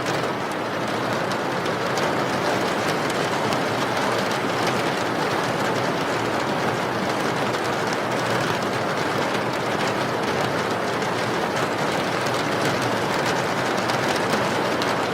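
Steady rain, an even unbroken wash of noise with faint fine drop ticks.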